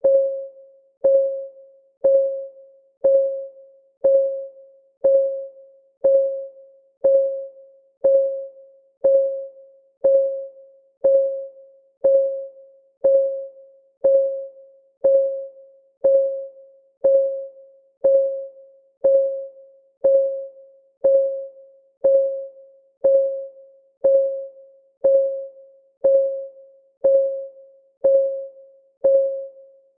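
Countdown timer's clock-ticking sound effect: one tick per second, steady and even, each a sharp click with a brief ringing tone that fades away.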